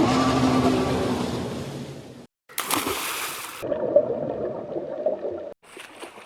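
Water splashing and sloshing in three short clips, each cut off abruptly; the middle one is a loud, hissing splash.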